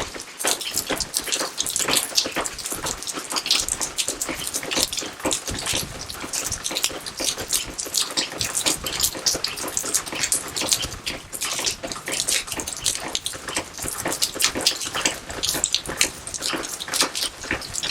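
Steady rain falling in a garden: a dense, irregular spray of drops and small splashes with no pause.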